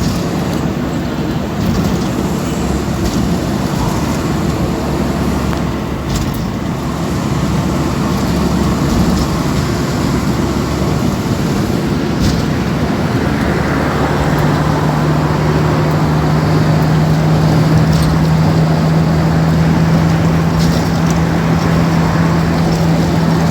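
Road vehicle noise, a steady loud rumble, with a steady low engine-like hum coming in about halfway through.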